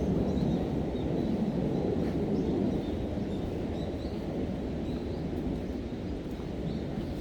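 Low outdoor rumble slowly easing off, with faint, short, high bird chirps repeating through it.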